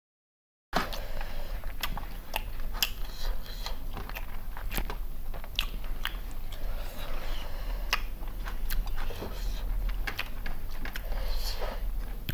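Close-up eating sounds of country chicken biryani being bitten and chewed, with irregular sharp crunches and smacking clicks. The sound starts abruptly after a short silence, and a low hum runs underneath.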